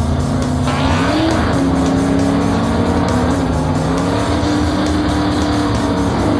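A cartoon vehicle engine sound effect running with a wavering, gliding pitch, over background music.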